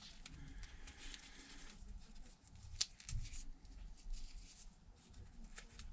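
Faint handwork on an opened tablet: a soft scraping in the first second or two, then a few scattered small clicks of metal tools and tweezers against the device.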